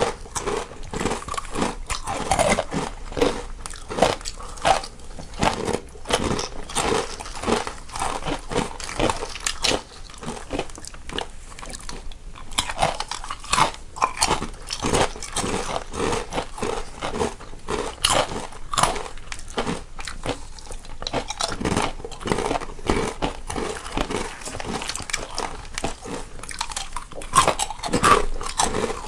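Two people crunching and chewing snacks, close-miked, with one eater in each stereo channel: a dense, continuous run of sharp, irregular crunches and bites.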